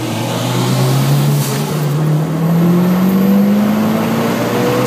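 Car engine pulling hard under full throttle, its pitch rising steadily through one gear, heard from inside the car's cabin.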